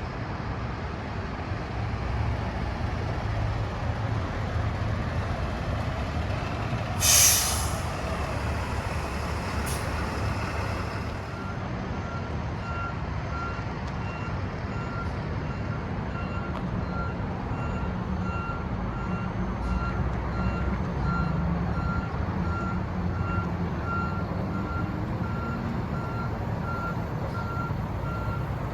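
Mack MD truck's Cummins B6.7 turbo diesel running, with a short loud hiss of air from the air brakes about seven seconds in and a fainter one a few seconds later. From about twelve seconds on, a back-up alarm beeps steadily as the truck reverses.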